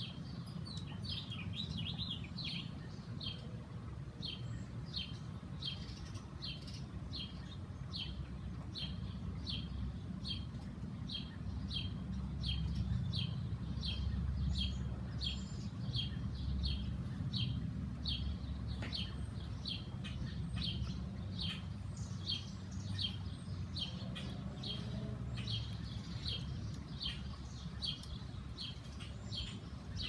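A bird chirping over and over at an even pace, about two short chirps a second, with a steady low rumble underneath.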